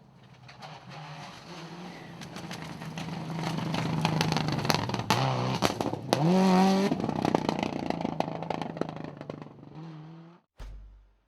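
Rally car passing at speed, its engine growing louder as it approaches, then the revs dipping and climbing sharply about six seconds in, the loudest moment, with many sharp cracks throughout. The sound then fades and cuts off suddenly near the end.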